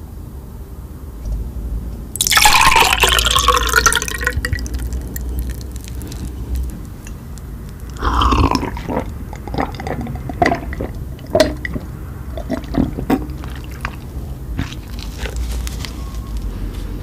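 Close-miked wet eating sounds: a loud squelching burst about two seconds in, another about eight seconds in, then many short sticky clicks of chewing.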